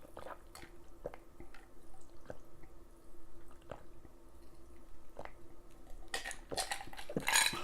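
A person eating in a mukbang: chewing with scattered short mouth clicks, which grow busier near the end.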